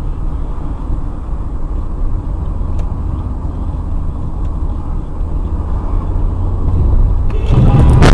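A car being driven, heard from its dashcam: a steady low rumble of engine and road noise. About seven and a half seconds in, it swells into a louder, harsher rushing noise.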